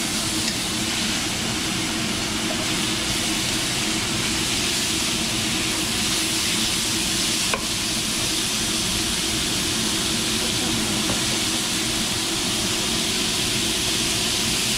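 Food sizzling steadily as it fries in a hot pan, with one brief click about halfway through.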